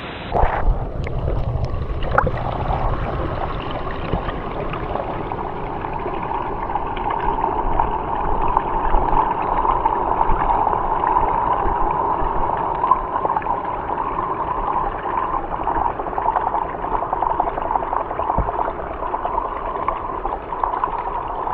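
Water heard through an underwater microphone: a muffled, steady rushing gurgle of moving water, with a few sharp clicks and splashes in the first couple of seconds as the camera goes under.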